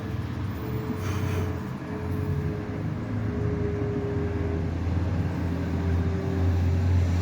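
A motor vehicle's engine running, a steady low hum that grows gradually louder as it comes nearer.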